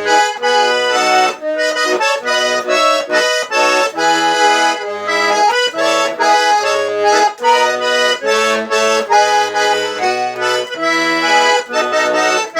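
Accordion playing an instrumental passage of a traditional Brazilian song, a lively run of chords and melody over a pulsing bass.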